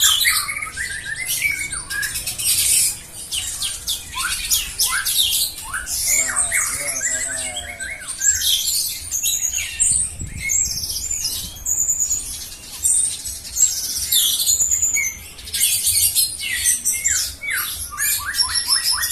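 Songbirds singing a fast, varied song without pause: rapid high chirps, trills, sweeping whistled notes and harsh squawky calls.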